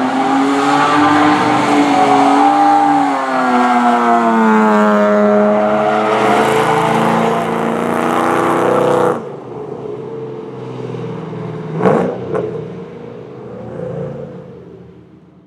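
Supercharged Ford Mustang GT V8 with Borla exhaust held at high revs while drifting, the engine note rising and falling over the hiss of spinning rear tyres. About nine seconds in the sound drops suddenly to a quieter, farther engine with one sharp crack, then fades out.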